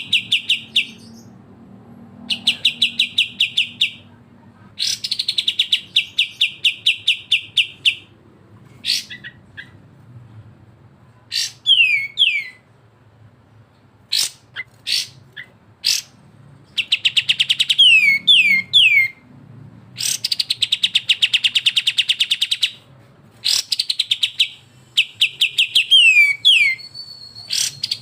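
Kapas tembak and cucak jenggot songbirds calling: repeated bursts of fast, rattling notes about ten a second, each burst lasting two to three seconds, mixed with quick downward-sliding whistles and single sharp chips. This is the 'besetan', the fast aggressive chatter used as masteran.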